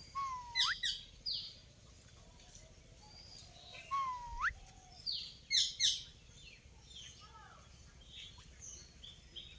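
Indian ringneck parrot whistling and chirping in two short bouts: a whistle that swoops up sharply at its end, followed by quick high falling chirps, once at the start and again about four seconds in, then fainter chirps.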